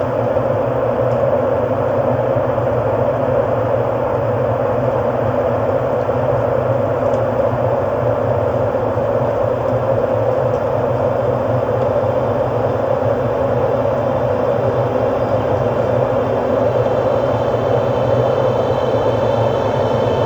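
Steady ambient electronic drone: a dense, rumbling synthesized texture with a low hum, with faint high tones coming in near the end.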